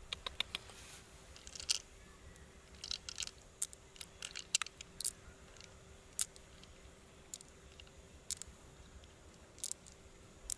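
Freshwater mussel being handled and worked open for pearls: irregular sharp clicks and short crunches of shell and wet flesh, some in quick little clusters.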